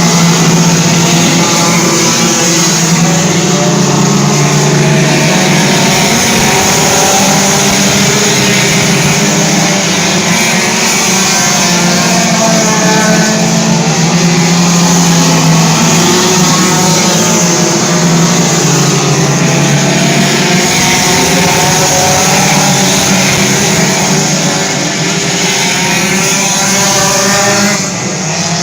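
Race car engines running hard around a dirt oval, several engines at once, their pitch rising and falling as they go through the turns and down the straights. The sound dips a little near the end.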